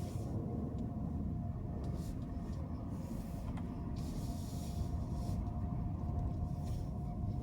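Car driving on city streets: a steady low road and engine rumble with a faint constant whine, and a few short swells of hiss.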